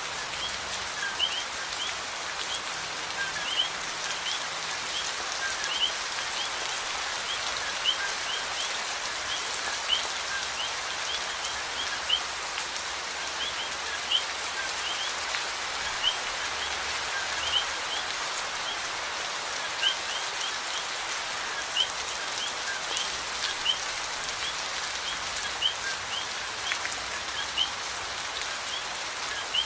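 Steady rain falling, an even hiss of drops, with short high chirps scattered throughout and a brief louder tap about every two seconds.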